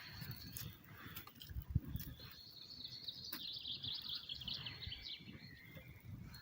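Small campfire of birch bark and thin twigs crackling with scattered sharp pops as it catches. A songbird sings one fast trilling phrase lasting about three seconds in the middle.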